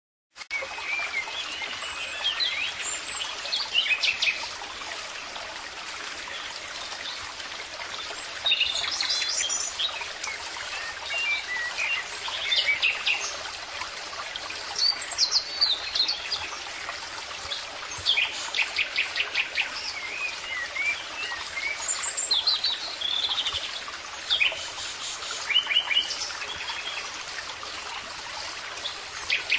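Birdsong: several birds chirping and singing, with quick repeated trills, over a steady background hiss. The sound starts suddenly about half a second in.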